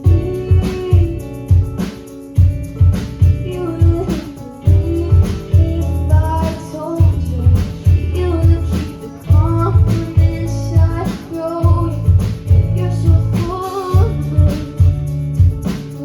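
Acoustic performance of a song: a woman singing over guitar played in a steady rhythm.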